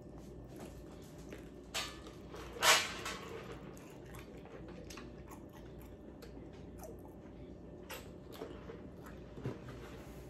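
Close-up chewing of a sauced chicken wing: soft, wet mouth noises and small clicks, with a sharper click about two and a half seconds in.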